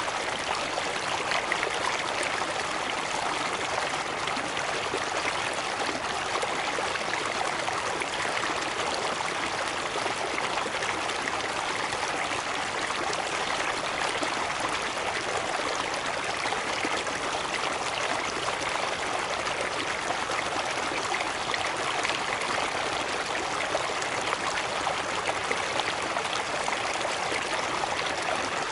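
Small waterfall cascading over rocks, a steady splashing rush of water with no breaks.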